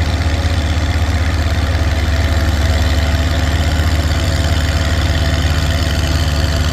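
Antique Oliver tractor's engine working hard under load, pulling a weight-transfer sled down a pulling track: a loud, steady drone that holds one pitch throughout.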